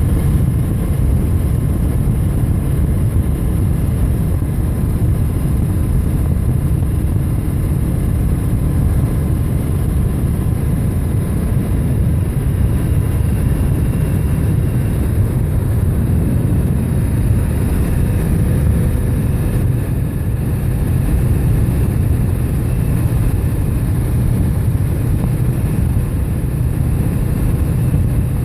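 Motorcycle on the move: a steady engine drone under a heavy low rumble of wind on the microphone.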